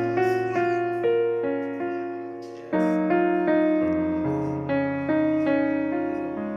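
Background piano music: a slow sequence of chords and melody notes, each struck and fading.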